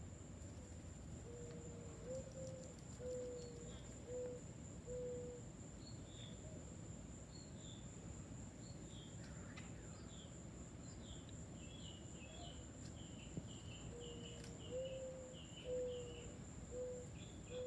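Low, soft cooing bird calls, a phrase of about five notes, the second rising slightly, heard twice. Faint high chirps from other birds and a steady high-pitched whine run underneath.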